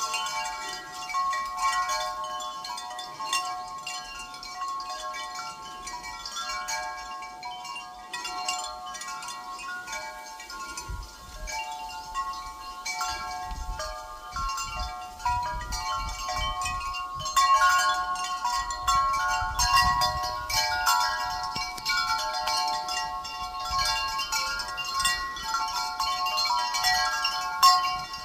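Wind chime ringing irregularly, many overlapping tones, with wind gusting against the microphone from about a third of the way in.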